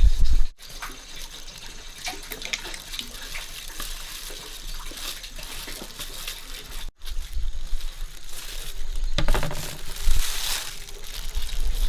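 Water running and splashing, as in washing or rinsing in a basin or at a tap, with small clinks and knocks; the sound cuts out abruptly twice, about half a second in and about seven seconds in.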